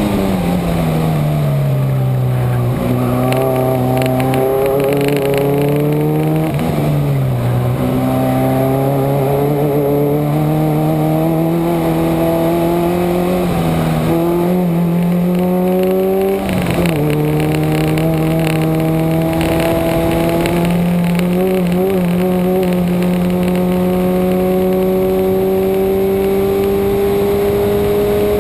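Subaru car engine driven hard on a race track. Its pitch falls over the first few seconds as the car slows for a corner, then climbs again with several brief dips at gear changes or throttle lifts, and near the end rises steadily under full acceleration.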